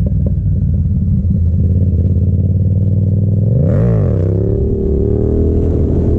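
Yamaha FZ-07's parallel-twin engine running steadily, with one quick throttle blip about four seconds in that rises and falls in pitch.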